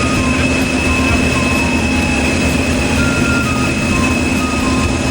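Diesel generator sets running on the test floor: a loud, steady engine drone with a steady high whine on top.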